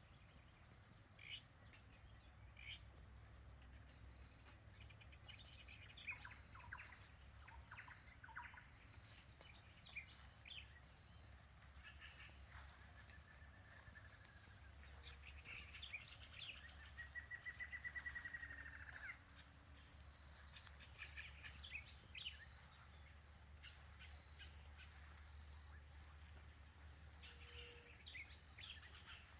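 Faint dawn countryside chorus: insects keep up a steady high-pitched trill, while birds give scattered short calls, with one longer bird trill a little past halfway.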